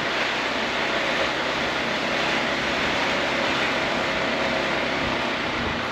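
Steady rush of wind and road noise from riding a Honda ADV 350 scooter, with no change in level.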